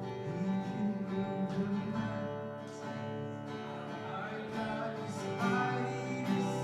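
Worship band music with a strummed acoustic guitar to the fore.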